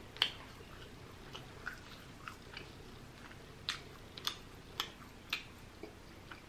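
Close-miked chewing of rotisserie chicken: soft, irregular wet mouth clicks and smacks, roughly one a second.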